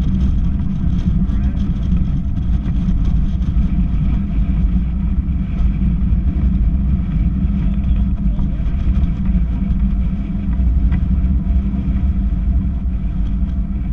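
Strong gusty wind buffeting the microphone: a loud, ragged low rumble that rises and falls with the gusts.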